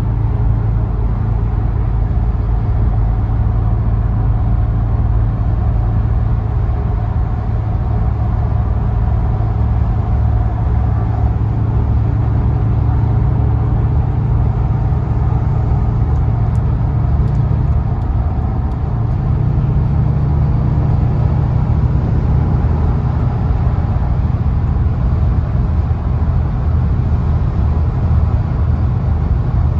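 2007 Audi RS4's 4.2-litre V8, heard from inside the cabin, running steadily at high highway revs under a constant wash of tyre and road noise. The engine note steps up a little in pitch about two-thirds of the way through.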